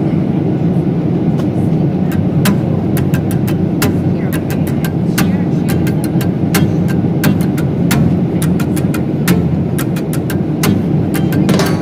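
Steady low rumble of an airliner cabin in flight, with scattered light clicks over it.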